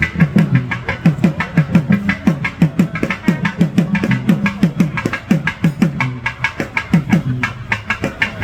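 Drum-led music: a fast, steady run of pitched drum strokes, about four to five a second, each low stroke dropping in pitch.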